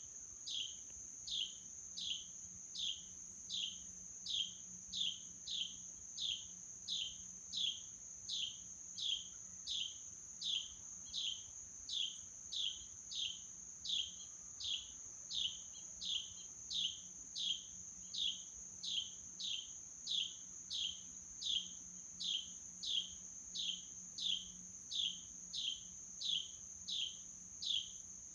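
A bird calling over and over, one short falling note about three times every two seconds, against a steady high-pitched insect drone.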